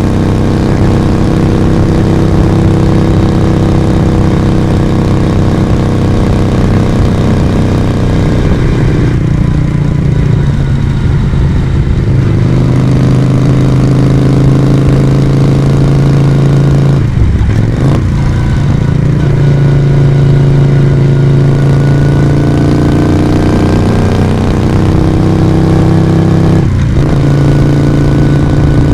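Moto Guzzi V35's air-cooled V-twin engine and exhaust running steadily under way. The note softens for a few seconds around a third of the way in. It breaks briefly twice, about 17 and 27 seconds in, and changes pitch after each break.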